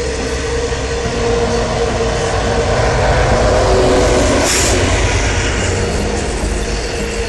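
BHP iron ore train passing close by: a steady rumble of ore wagons on the rails, with the drone of a mid-train diesel locomotive growing loudest about four seconds in as it goes past.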